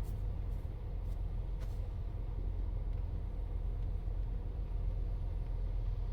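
Toyota Ractis car running, a steady low rumble with a few faint ticks in the first two seconds.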